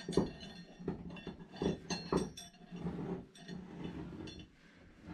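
Metal pieces knocking and clinking as they are handled, about six sharp strikes at uneven intervals, several ringing briefly.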